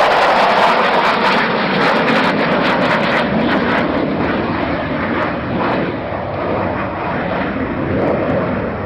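Fixed-wing aircraft flying past, a loud rushing roar at its strongest at first and slowly fading as it moves away, with a brief swell again near the end.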